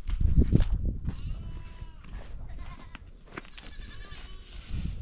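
Goats bleating: two separate calls, one about a second in and another about three and a half seconds in, each lasting about a second. A loud low rumbling noise fills the first second.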